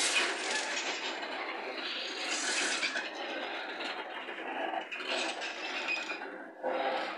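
Freight train's covered hopper wagons rolling slowly past close by: steel wheels grinding and scraping on the rails with a rough, uneven rasp and no engine tone, swelling again near the end.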